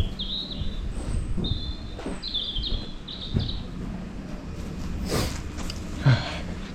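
A small bird chirping in four quick high phrases over the first few seconds, then a couple of soft knocks or handling sounds near the end, over a faint steady low hum.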